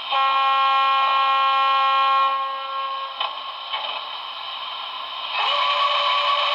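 HO-scale Broadway Limited Milwaukee Road S3 4-8-4 steam locomotive's onboard Paragon 4 sound system playing its alternate steam whistle through the model's small speaker. There is one steady blast of two to three seconds, then after a pause a second, breathier blast begins near the end.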